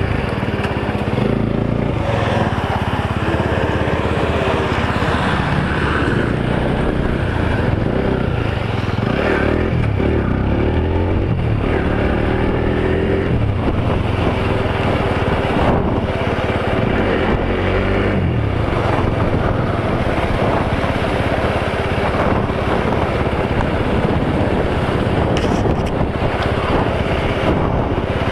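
Motorcycle engine running under way, with the engine pitch rising and falling several times as the rider works the throttle.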